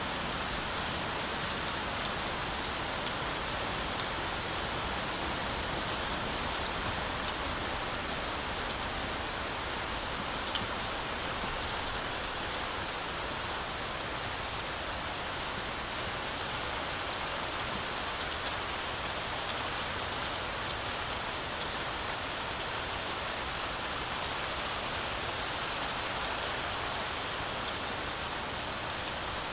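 Heavy rain falling steadily through a forest canopy, a dense even hiss of rainfall with scattered individual drop ticks.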